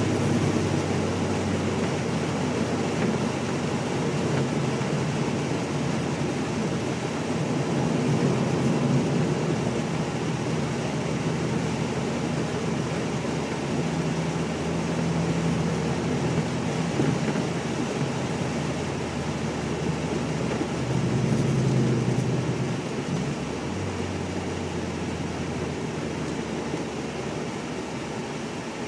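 Porsche 944 S2 at speed, heard from inside the cabin: the engine running steadily under a constant rush of wind and tyre noise. The engine note shifts a little past two-thirds of the way through and the whole sound eases slightly toward the end.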